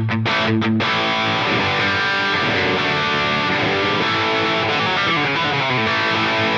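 Electric guitar played through a Line 6 Pod Go's Placater Dirty amp model, a Friedman simulation, giving a driven, distorted tone with a little reverb. The chords and notes run continuously, with two brief stops about half a second apart near the start.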